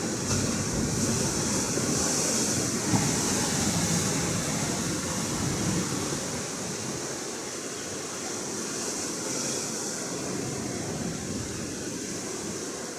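Atlantic Ocean surf: a steady wash of breaking waves that swells over the first few seconds and then eases off.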